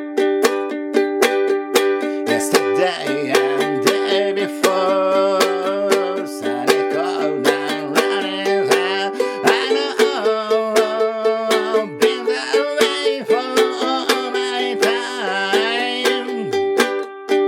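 Applause by Ovation UA20 ukulele strummed in a steady rhythm through an instrumental break between verses, with a melody line wavering over the chords from about three seconds in.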